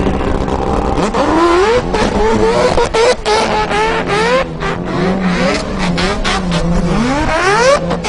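Several drift cars' engines revving hard, their pitch sweeping up again and again as the throttle is worked, over another engine holding steady revs.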